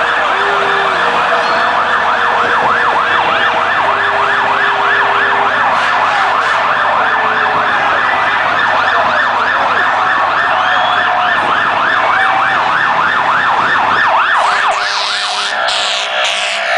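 Emergency vehicle siren on a fast yelp, rising and falling about three to four times a second. The pattern changes near the end.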